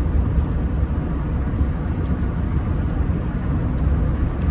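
Steady low rumble of a Rolls-Royce Silver Spirit III under way, road and engine noise heard from inside the cabin, with a few faint ticks.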